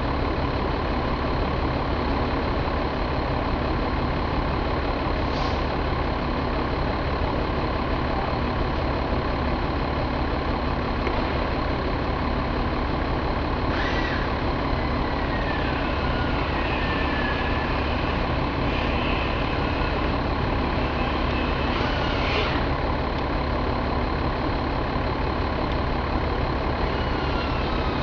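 Mercedes-Benz MBE926 inline-six diesel engine running at a steady speed. A few faint high whistles falling in pitch come through around the middle.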